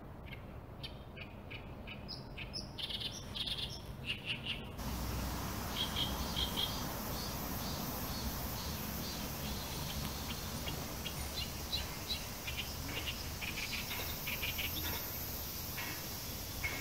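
Small birds chirping in many quick, short calls over steady outdoor background noise; the background becomes louder abruptly about five seconds in.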